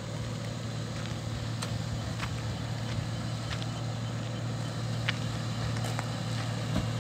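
A vehicle engine running steadily, a low even hum, with a few sharp clicks scattered through.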